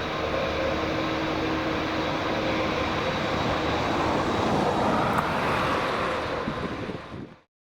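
Boeing 777-300ER's GE90-115B jet engines roaring at takeoff power, a dense steady rush with faint steady whining tones in it. It tails off and cuts out abruptly about seven seconds in.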